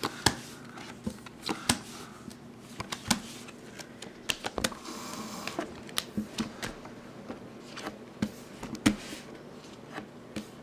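Game cards being flipped and laid down on a table one after another, each making a short, sharp snap or tap, irregularly, about one a second.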